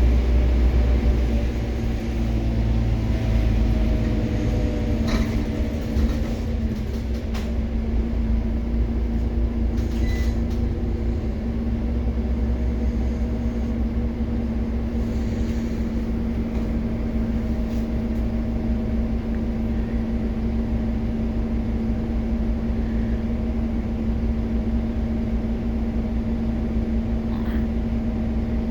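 Scania OmniCity city bus's drivetrain whining down in pitch as the bus slows over the first few seconds, then settling into a steady idling hum, with a few short clicks along the way.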